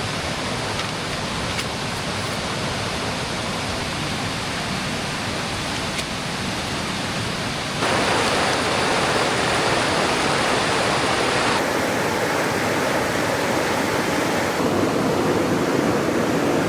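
Mountain creek water running: a steady rush that jumps louder about eight seconds in and shifts in tone a couple of times after that.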